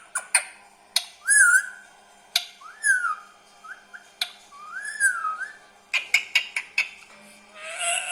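Indian ringneck parrot whistling: a few rising-and-falling whistled notes among sharp clicks, then a harsher call near the end.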